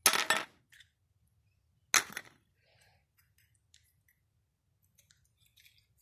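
Slime being handled and squeezed by hand: two sharp squelching pops about two seconds apart, then faint crackles and clicks.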